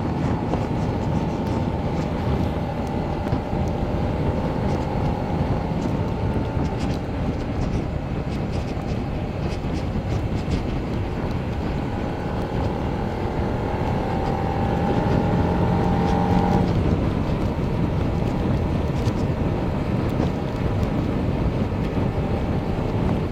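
Motorcycle engine running under way beneath heavy wind and road rush. About two thirds in, the engine tone climbs gradually, then drops off suddenly.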